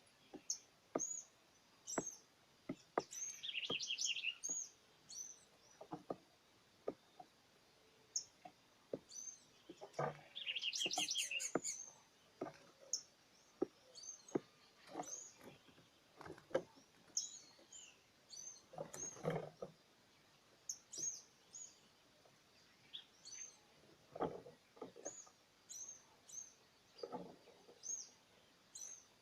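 Small wild birds chirping, with short high chirps throughout and two longer trills, about three and ten seconds in. Scattered sharp clicks and a few short noisy bursts come in between.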